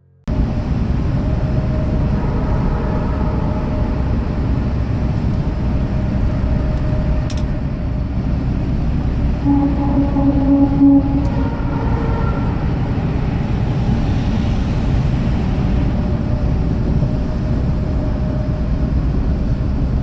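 Hyundai Porter box truck driving at speed, heard as a steady low rumble of engine and road noise, with a brief tone about halfway through.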